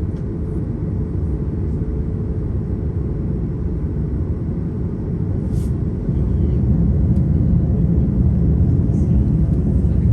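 Steady low rumble of an airliner heard from inside the cabin before takeoff, getting a little louder about six seconds in.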